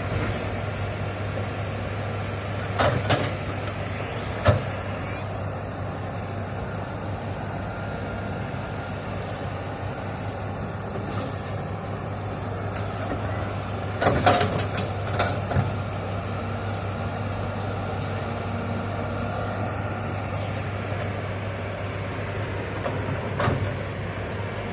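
Hitachi excavator's diesel engine running steadily at work, with a few sudden sharp cracks or knocks standing out above it: twice a few seconds in, a cluster around the middle and once near the end.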